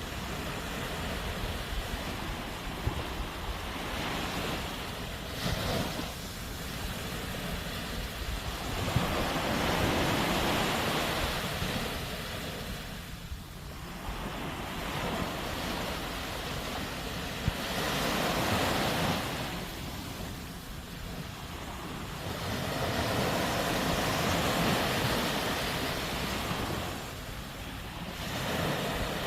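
Sea waves breaking and washing on the shore, a steady surf noise that swells and ebbs every several seconds, with some wind on the microphone.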